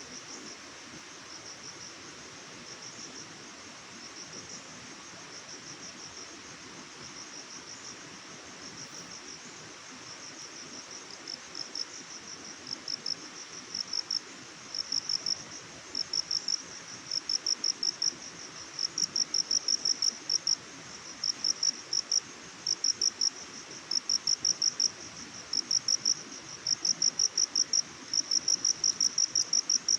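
Crickets chirping in repeated bursts of rapid high pulses. The chirps are faint at first and grow steadily louder, becoming prominent from about halfway on, over a steady soft hiss.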